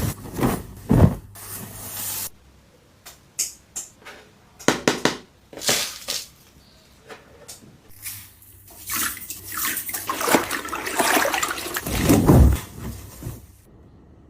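Water splashing and running during cleaning, coming in irregular bursts with short knocks and clatter in the gaps between.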